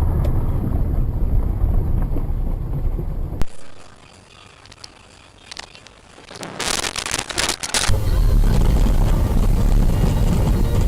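Car road and engine noise picked up by dashcams, with abrupt changes in level: a low rumble, a sharp click about a third of the way in and a quieter stretch, a short hissing burst past the middle, then loud low rumble again.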